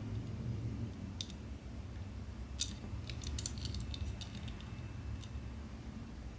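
Scattered light clicks and taps of a small die-cast toy truck being handled: one about a second in, another midway, then a quick run of clicks, over a low steady hum.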